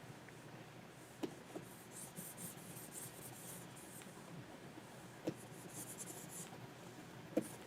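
A stylus nib scratching faintly across a Wacom pen display's surface in short drawing strokes, with three sharp taps of the pen: about a second in, about five seconds in, and near the end.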